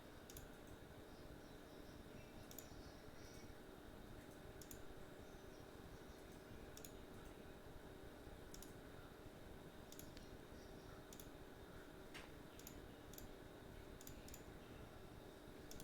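Faint, irregular clicks at a computer, roughly a second apart, over a low steady room hum.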